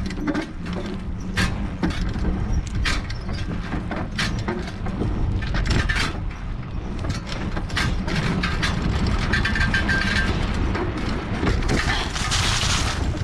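Wind rumbling on a bike-mounted GoPro's microphone while the bike is ridden over rough ground, with frequent rattles and knocks from bumps. A brief thin whine sounds near the middle, and a brighter hiss comes near the end.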